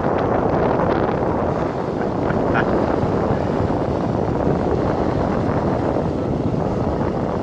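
Wind buffeting the microphone: a steady, loud rumbling rush with no let-up.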